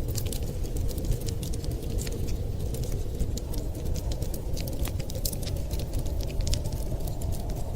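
Wood fire crackling, with many small sharp pops scattered irregularly over a steady low rumble.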